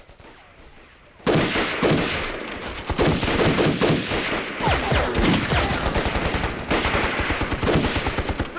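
Sudden heavy gunfire about a second in: a dense, rapid volley from many guns at once that keeps going.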